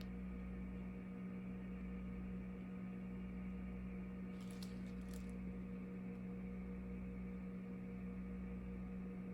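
A steady low electrical hum, with two faint soft ticks about halfway through.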